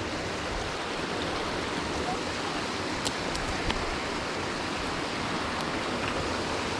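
Waterfall rushing steadily, with two or three brief sharp clicks about three seconds in.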